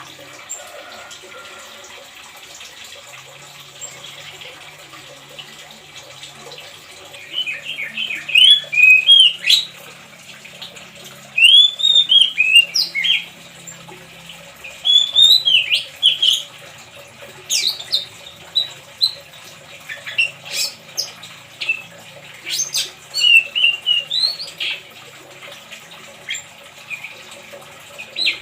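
Oriental magpie-robin calling in short phrases of rising-and-falling notes, starting about seven seconds in, over a steady trickle of running water.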